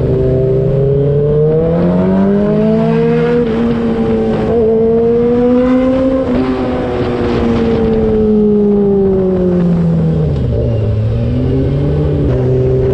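2003 Yamaha R6's 600 cc inline-four engine, running through an SC-Project aftermarket exhaust. It is accelerating and then easing off under way: the engine note climbs over the first few seconds, holds high, falls slowly to a low dip about eleven seconds in, then picks up again near the end.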